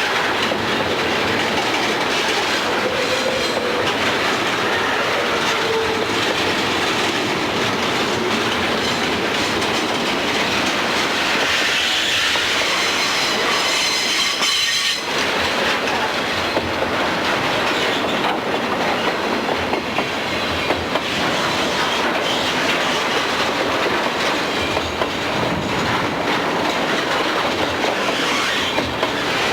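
Freight train cars rolling steadily past, wheels clicking over the rail joints, with a high-pitched wheel squeal for a few seconds about halfway through.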